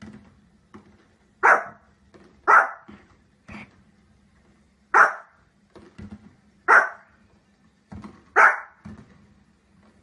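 A small fluffy spitz-type dog barking at fireworks on the television: five loud, short barks and one softer one, spaced unevenly about one to two seconds apart. Fainter low knocks sound between the barks.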